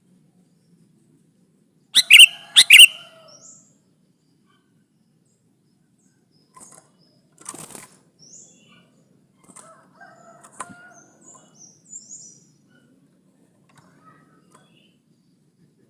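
Sooty-headed bulbul giving two loud, short calls about two seconds in, followed by a scatter of faint high chirps and soft rustles.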